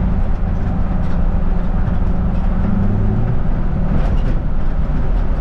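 Mustang 5-liter V8 in a 1960 Ford F100 pickup running steadily under way, its low engine note easing off about three seconds in, over road noise.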